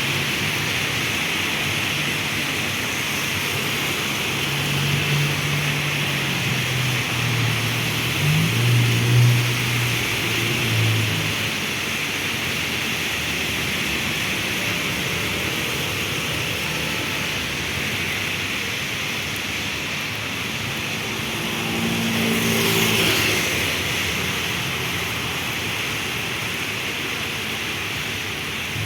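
Heavy rain falling with a steady hiss on a city street. Vehicle engines pass twice: a low hum swells and fades about five to eleven seconds in, and a louder pass with a tyre swish comes about two-thirds of the way through.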